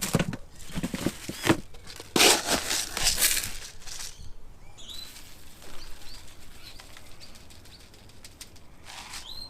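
Birds' wings flapping with rustling and knocks, loudest around two to four seconds in, then short high chirps from birds.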